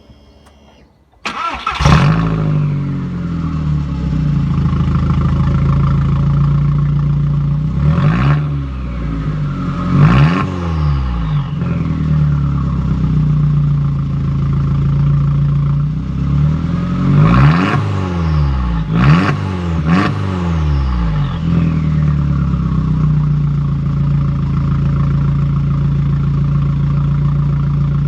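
Golf Mk4's turbocharged 1.8-litre four-cylinder engine, exhaust run with a resonator-delete race tube and no muffler, starting about a second in and flaring up before settling to a loud idle. It is blipped in two groups of quick revs, each rising and falling back, and then idles steadily again.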